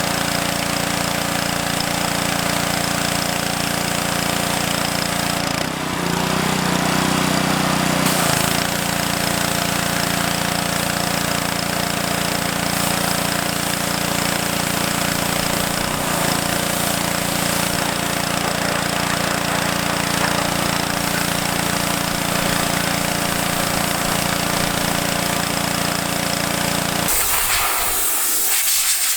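Pressure washer spraying water onto a greasy dirt bike engine: a steady hiss of spray over the steady hum of the washer. The hum drops out near the end while the hiss continues.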